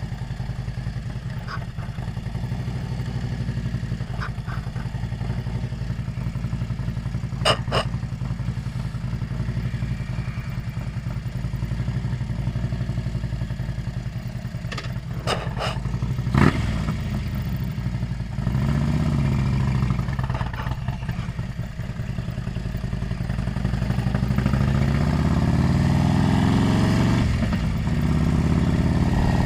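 Motorcycle engine running on the move, picked up by a helmet-mounted camera. The engine pitch rises twice in the second half as the bike accelerates, and a few sharp clicks come about seven seconds in and again around sixteen seconds.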